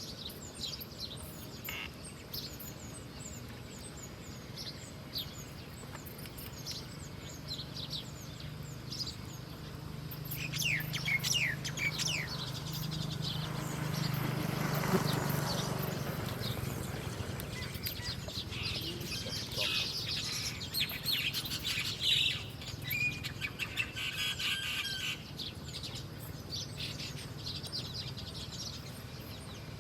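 Birds chirping: many short, high chirps and trills, busiest about ten to thirteen seconds in and again around twenty to twenty-five seconds. A low hum swells up and fades in the middle.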